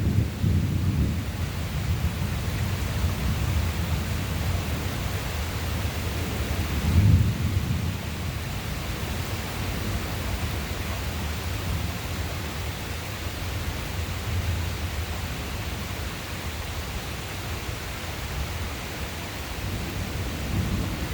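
Thunder from a passing thunderstorm: a sharp crack at the start, then a long low rumble that swells again about seven seconds in, over steady rain.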